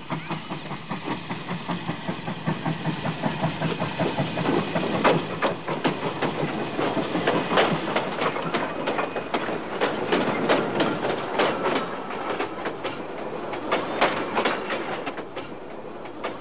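Steam-hauled passenger train passing close by, its wheels clicking rapidly and unevenly over the rail joints as the carriages roll past.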